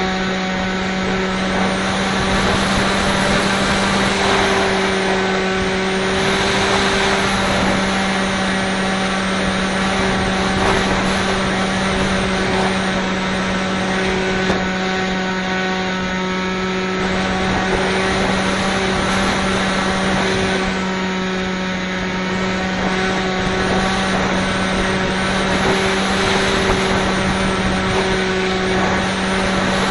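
Bixler 2 RC plane's electric motor and propeller running with a steady, unchanging drone, under heavy wind noise buffeting the microphone.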